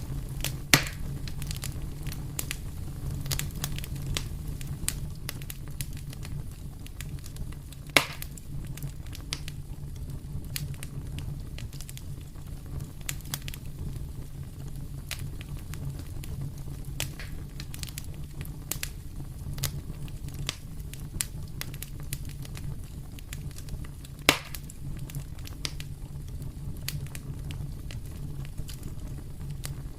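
Wood fire crackling in a fireplace over a steady low rumble, with frequent small ticks and three loud sharp pops at about one, eight and twenty-four seconds in.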